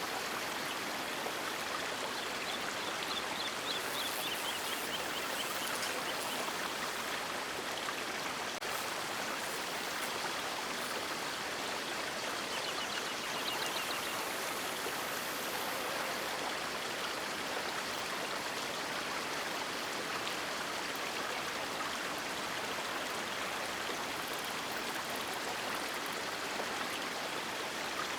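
River water rushing steadily, an even unbroken noise with no change in level.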